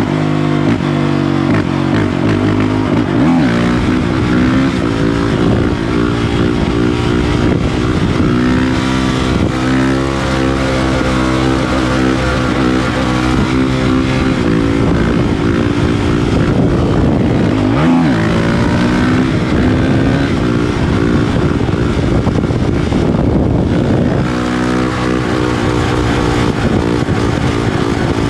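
Honda CRF450RL's single-cylinder four-stroke engine through an FMF Powercore 4 exhaust with MegaBomb header, ridden hard, its pitch rising and falling as the throttle opens and closes. It drops off sharply twice, a few seconds in and again about halfway, then picks back up.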